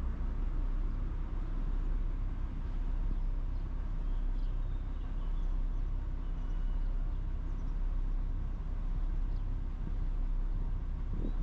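Steady low vehicle rumble with faint, even low tones, and a few faint high chirps around the middle.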